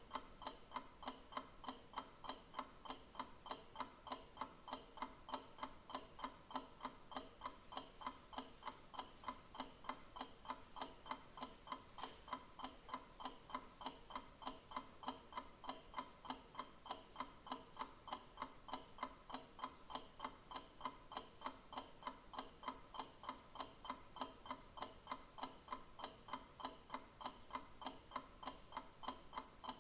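Clock ticking steadily, even ticks several times a second.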